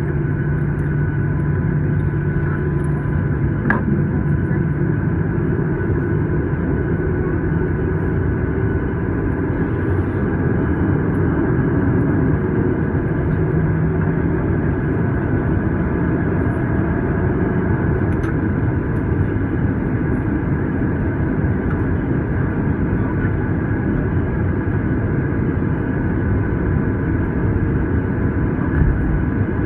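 Steady low rumble of a Boeing 737-900's CFM56 jet engines at idle and the airframe, heard inside the passenger cabin as the airliner taxis after landing, with a faint steady whine over the rumble and a couple of light clicks.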